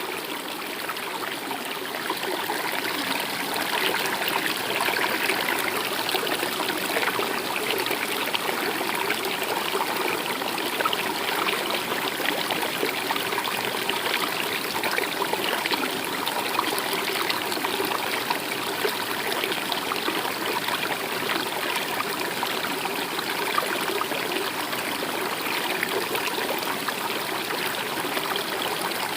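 Stream water running and trickling over rocks, a steady babbling rush.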